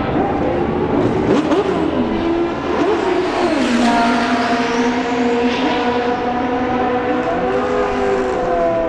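Several historic Formula One racing cars running at high revs together, their engine notes rising and falling as they pass and change gear.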